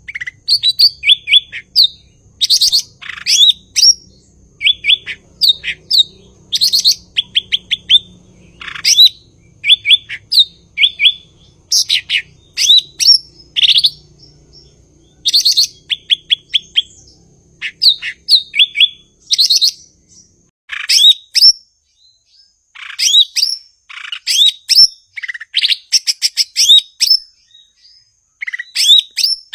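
Cucak ijo (leafbird) singing loudly and continuously: quick runs of short, sharp, high chirps and whistled notes in repeated phrases, with brief pauses between them.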